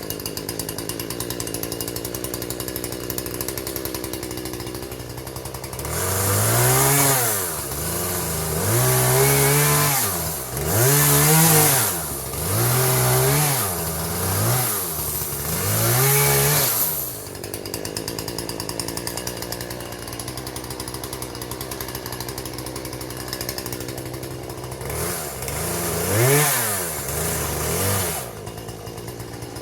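Husqvarna 120 two-stroke chainsaw idling, then revved up about five times in quick succession, each rev rising and falling in pitch as it cuts limbs from a log. It drops back to a steady idle, with one more short rev near the end.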